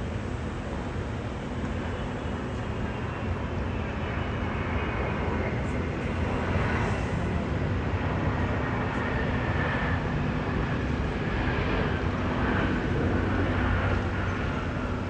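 Jet airliner's engines, a broad rushing noise with a faint high whine, growing slowly louder as the aircraft approaches.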